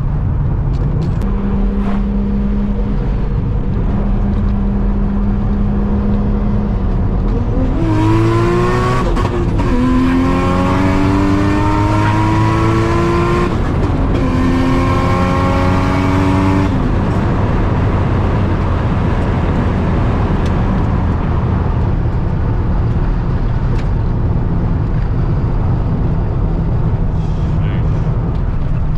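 Nissan Stagea cruising, then accelerating hard: the engine note climbs in two rising runs with a short break for a gear change between them, then settles back to a steady cruise.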